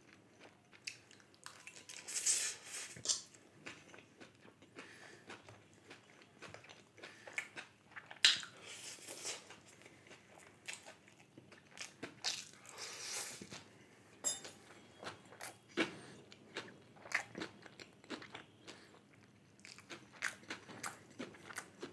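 A person eating chilli chicken close to the microphone: soft chewing and mouth clicks, with a few louder bites and smacks scattered through.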